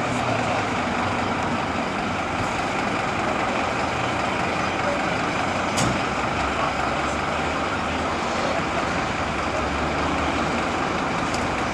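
Scania fire engine's diesel engine running steadily, with one sharp click about six seconds in.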